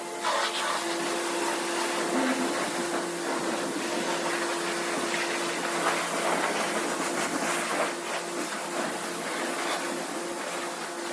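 Self-serve car wash pressure wand spraying steadily, a loud hiss of water over a steady pump hum.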